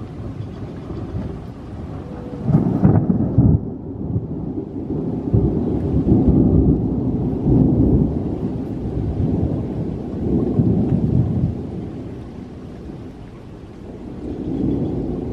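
Thunder rumbling: a sudden loud peal about three seconds in, then deep rolling rumbles that swell and fade several times.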